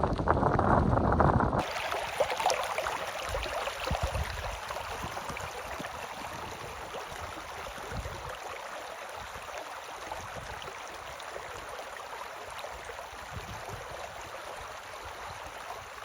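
A steady rushing noise with no distinct pitch. It is preceded by a short stretch of deep rumbling that cuts off abruptly about a second and a half in.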